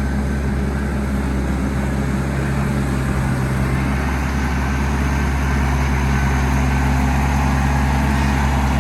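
New Holland TC45DA tractor's diesel engine running steadily, a constant low engine note that gets slightly louder in the second half.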